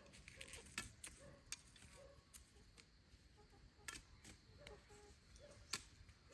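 Near silence broken by scattered faint clicks and ticks, the sharpest a little before six seconds in.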